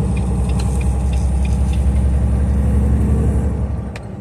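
Semi-truck diesel engine running steadily under way, heard from inside the cab as a low drone that eases off about three and a half seconds in. A sharp click sounds near the end.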